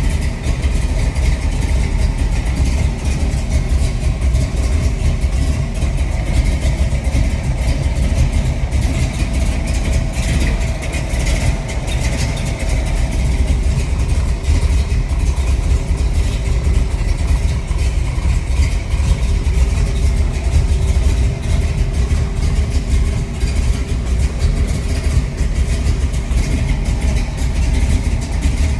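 1968 Chevrolet Camaro's 454 big-block V8 with performance headers running steadily, a loud, deep exhaust note with little change in engine speed.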